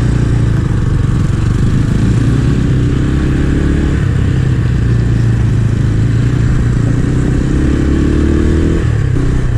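250 cc scrambler motorcycle engine running under way, its pitch rising twice as it pulls up through the revs.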